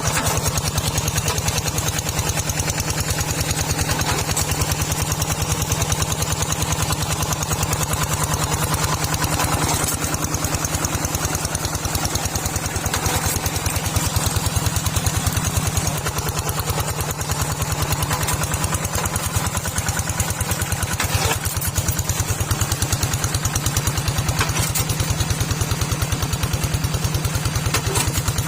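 A small tractor's engine running steadily, with a fast, even beat of firing pulses.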